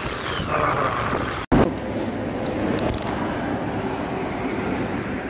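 Steady motor-vehicle road and traffic noise from a motorcycle ride, broken by a split-second dropout about one and a half seconds in.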